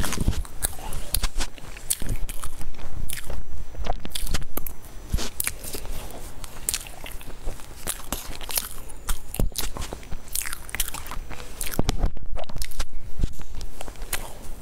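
Close-miked chewing and biting of a baked food, a dense run of sharp crunches and crackles.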